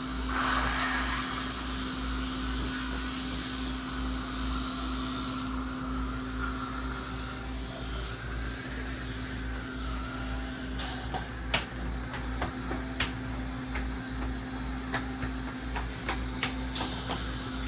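Dental cleaning equipment running with a steady hiss and low hum, joined in the second half by a run of sharp clicks and taps of instruments against teeth.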